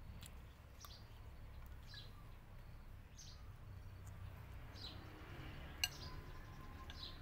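A small bird chirping repeatedly, short high chirps that fall in pitch, about one a second, over a low steady background rumble. Near the end a metal spoon gives one sharp clink against the bowl, the loudest sound.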